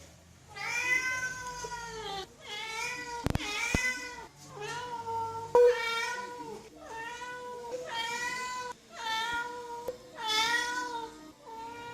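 Domestic cat meowing insistently at a closed door, calling for a person: a string of about eight long, drawn-out meows, one after another with short gaps. A couple of sharp knocks come a little after three seconds in.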